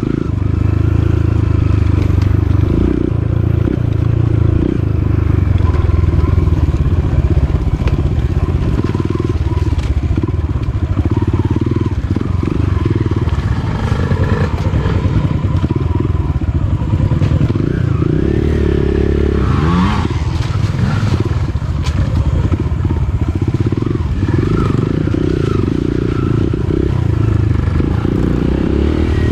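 Dirt bike engine running while being ridden off-road, with the revs rising and falling and a quick rev about twenty seconds in.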